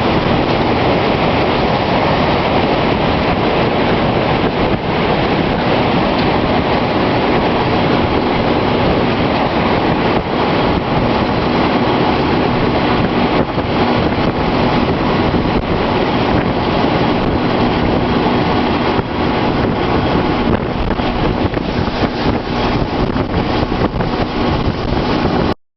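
Strong wind roaring over the microphone, a loud steady rush with many rapid crackling hits, which cuts off abruptly near the end.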